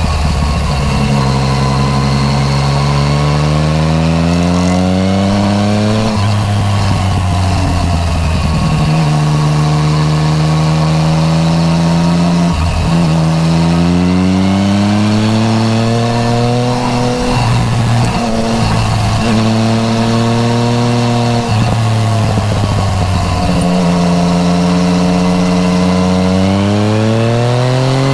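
Yamaha MT-09 Tracer's three-cylinder engine through an Akrapovič titanium full exhaust, rising and falling in revs as the bike is ridden, with a sudden jump in pitch at each of several gear changes.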